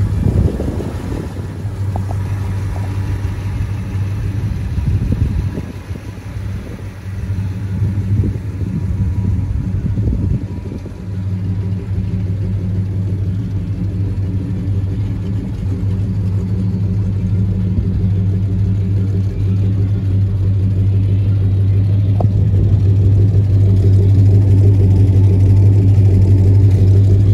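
1967 Dodge Charger's 6.2-litre V8 idling with a steady low rumble, growing louder toward the end.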